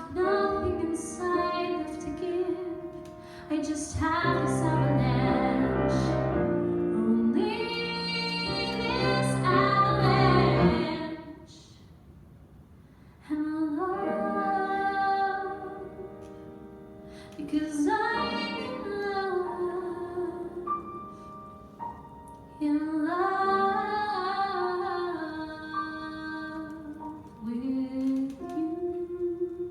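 A woman singing a music-theatre ballad with piano accompaniment. The accompaniment swells loudly from about four to eleven seconds in, then drops back to quieter sung phrases.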